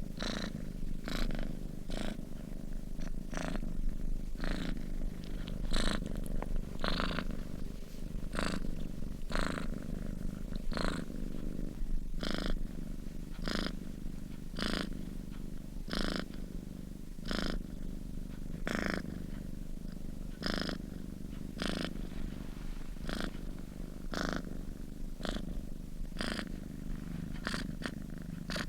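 Sleeping cat purring steadily, a low continuous rumble with a breathy rasp on each breath, roughly every second or so.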